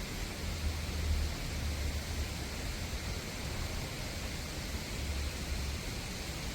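Wind buffeting the microphone outdoors: an uneven low rumble over a steady hiss.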